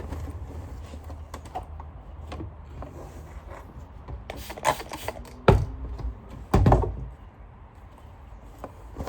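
Scattered light clicks and taps, with a few louder knocks about five and a half and six and a half seconds in, from vacuum cleaner parts being handled and cleaned.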